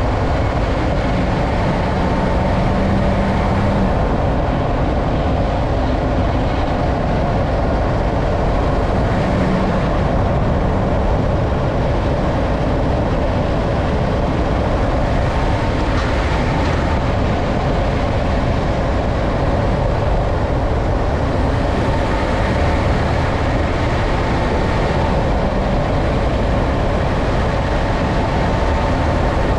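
Steady road and drivetrain noise of a 2012 Nissan Frontier Pro-4X pickup on the move, a continuous even rumble with no distinct clunks standing out.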